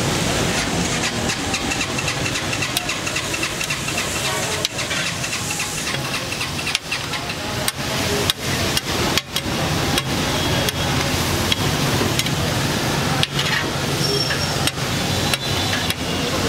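Chunks of liver sizzling in oil and masala on a large flat iron tawa, with a metal spatula scraping and clacking against the griddle at irregular moments over a steady low hum.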